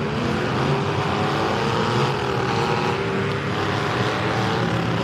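Engines of several compact pickup trucks in a demolition derby running and revving, their pitch slowly rising and falling.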